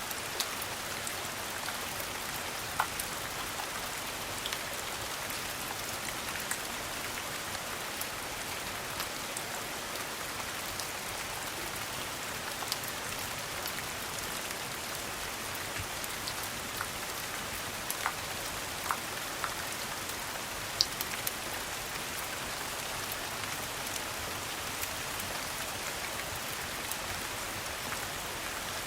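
Steady rain falling, with scattered sharp pops from a crackling wood fire.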